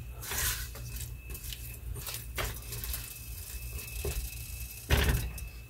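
Pork chorizo and onion frying in a nonstick pot over raised heat, sizzling softly while a silicone spatula stirs and scrapes the mixture against the pan. A louder knock comes near the end.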